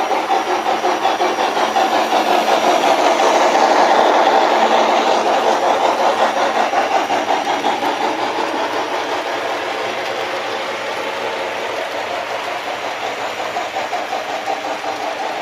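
Sound-equipped model of a Southern Pacific AC-12 cab-forward steam locomotive chuffing in a fast, even rhythm as it runs with its train, growing louder to a peak about four seconds in and then easing off.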